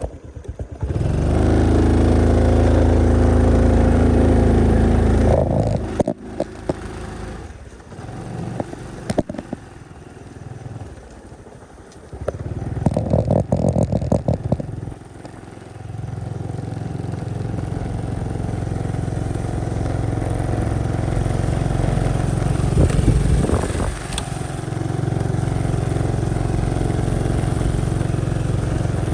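Motorcycle engine running while riding, loud and steady at first. A stretch of knocks and rattles with the engine note changing follows, then it runs steady again from about halfway through.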